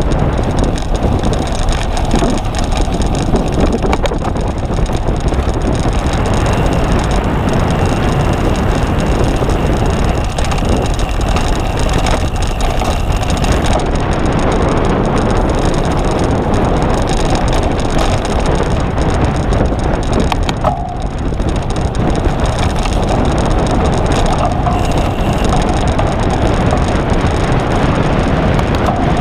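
Cyclocross bike being ridden over rough ground, a steady loud rumble and rattle of tyres and frame, dipping briefly about twenty seconds in.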